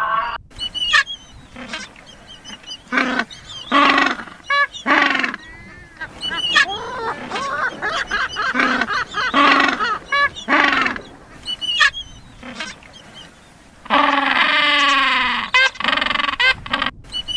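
A bird calling over and over with honking, squawking calls, including one long, drawn-out call near the end.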